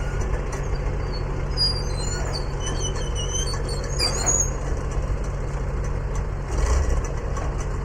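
Tractor engine running steadily, with a brief swell in level near the end. Short high chirps sound over it in the first half.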